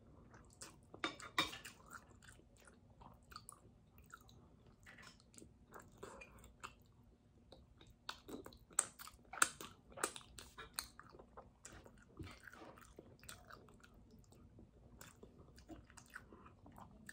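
A person chewing a mouthful of spicy pork ribs and rice, with wet mouth clicks and smacks. The sharpest clicks come about a second in and again from about eight to eleven seconds, as sauce is licked off a thumb.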